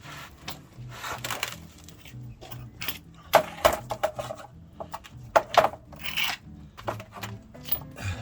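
Metal hand tools and parts clinking and clattering in a series of sharp knocks, the loudest about three and a half and five and a half seconds in, with music playing in the background.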